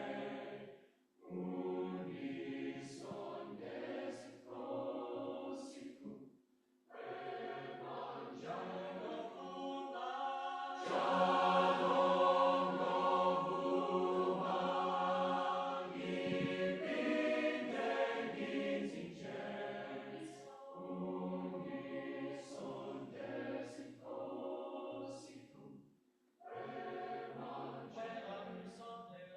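A choir singing a traditional South African choral piece built on a well-known hymn. It moves in sung phrases with brief pauses between them, and is fullest and loudest about halfway through.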